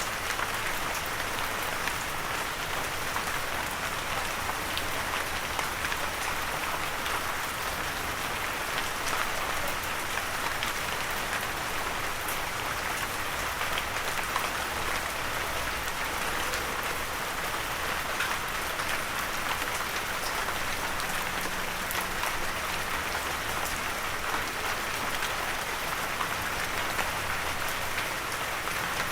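Steady light rain falling, a dense even patter of drops with no thunder.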